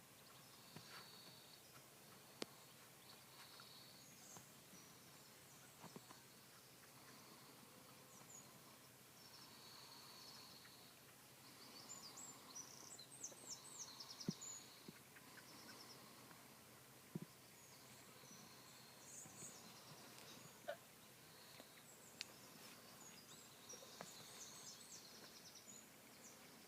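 Faint birdsong: scattered high chirps and short rapid trills, coming and going, with a few soft clicks, over a near-silent background.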